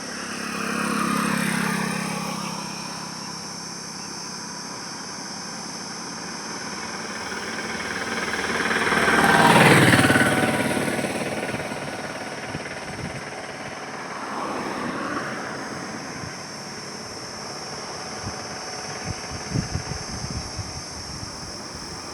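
Highway traffic: vehicles passing one at a time, one about a second in, a louder one close by in the middle whose pitch drops as it goes past, and a fainter one later. A steady high-pitched whine runs underneath.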